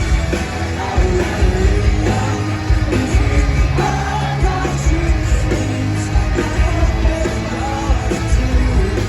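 Live rock band playing loudly, with a steady heavy bass and drums and a vocal line, possibly with the crowd yelling along.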